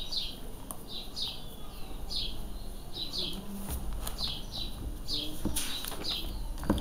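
A small bird chirping over and over, short high chirps that fall in pitch, one or two a second, with a few faint clicks.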